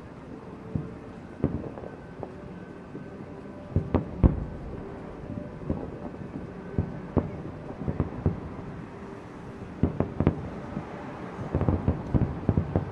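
Aerial fireworks bursting: a string of sharp bangs at uneven intervals, with the loudest cracks about four seconds in and a rapid cluster of bursts near the end.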